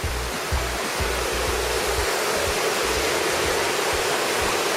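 Steady rush of a cascading waterfall close to the microphone, with irregular low rumbles underneath.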